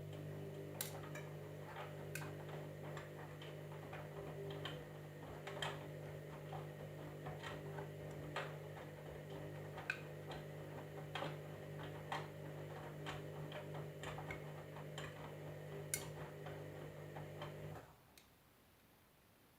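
Candy EcoMix washing machine running with a steady hum, irregular light ticks and clicks over it, which cuts off abruptly about eighteen seconds in.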